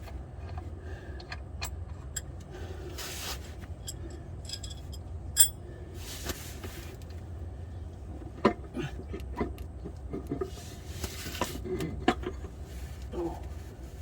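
Scattered metallic clinks, clicks and knocks of tools and parts being handled during hands-on work on an automatic transmission, with a few short hissing rustles, over a steady low hum.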